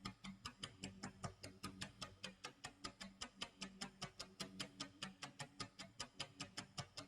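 Clock tick-tock sound effect: a fast, even run of faint sharp ticks, several a second, over a low steady hum.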